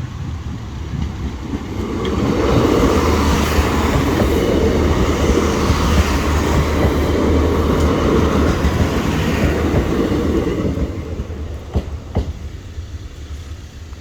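Northern Ireland Railways diesel multiple unit passing through the level crossing: engine hum and wheels rumbling over the rails, rising about two seconds in and fading after about ten seconds. Two sharp clicks follow near the end.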